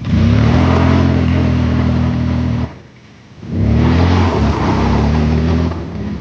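Motor scooter engine held at high revs under full throttle twice, each time for about two and a half seconds with a short break between, at a steady pitch. Traction control is switched off for this run.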